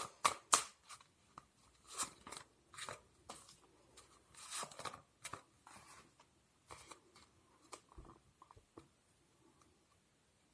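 Tarot cards being handled and shuffled: irregular crisp rustles and snaps, dense at first, then thinning out to occasional soft taps.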